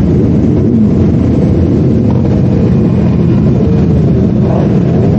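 Yamaha R3 motorcycle running at a steady cruise, its engine drone mixed with wind and road noise.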